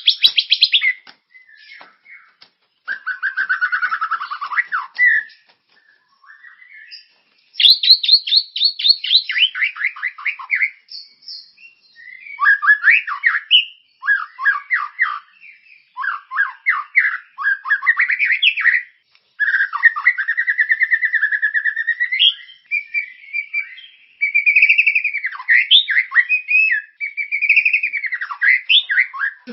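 Songbird song from a masteran tutor recording for white-rumped shamas: a varied, changing string of phrases made of rapid repeated chattering notes, trills and sweeping whistled notes, with short pauses between the bursts.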